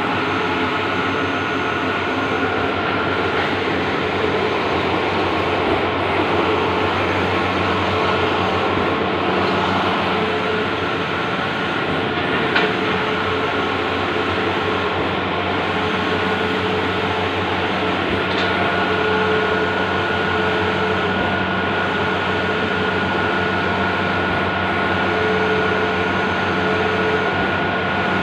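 Bluewin outdoor large-format printer running: a steady mechanical whirr and hum with faint ticks.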